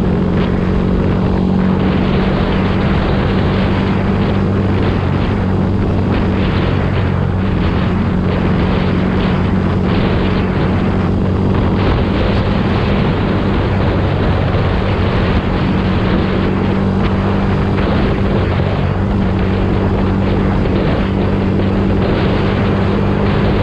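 Yamaha YZF-R125's single-cylinder four-stroke engine running through its exhaust at a steady engine speed: a constant, unchanging drone.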